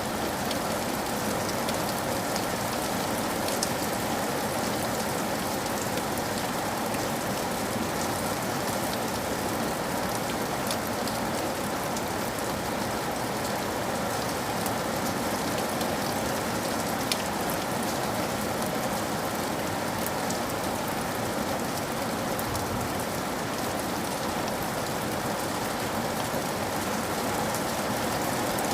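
Steady rain falling, an even hiss of rain on a surface with faint scattered drop ticks.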